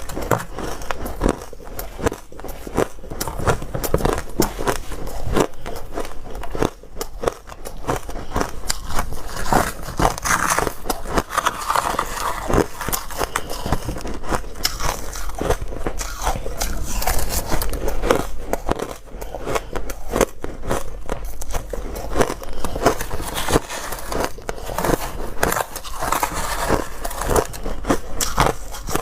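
A person biting and chewing dry, crunchy ice, a dense run of crackling crunches without pause.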